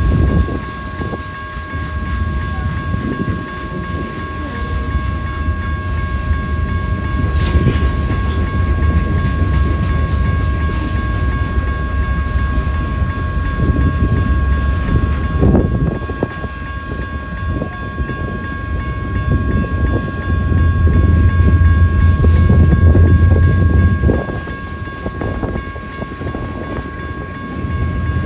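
A train rolling past: a continuous low rumble with scattered knocks from the cars, swelling loudest about twenty seconds in before easing. Two steady high-pitched tones run throughout.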